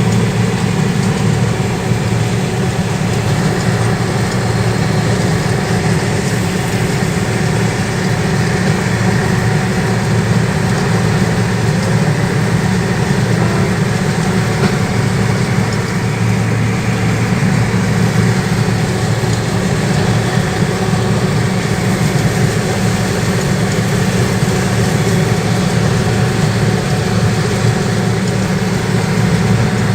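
The heavy engine of a corn-threshing rig running steadily with an even, low drone, the machine being driven slowly.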